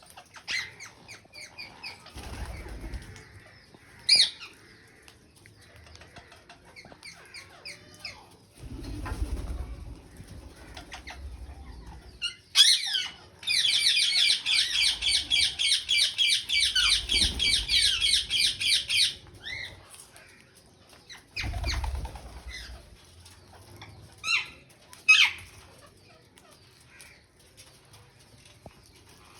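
Alexandrine and rose-ringed parakeets calling: scattered shrill squawks, then a rapid chatter of repeated shrill calls lasting about five seconds in the middle. Low muffled thumps come in between.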